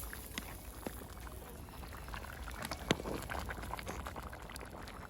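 Pea soup bubbling at a boil in a camp pot over a campfire, with many small irregular pops and clicks. One sharper pop comes about three seconds in.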